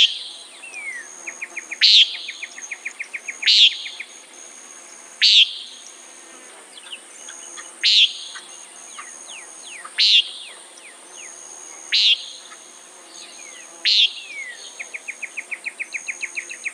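Common nighthawk giving its short nasal "peent" call eight times, about every two seconds. Under it runs a steady high-pitched insect chorus, and there are two runs of fast ticking pulses.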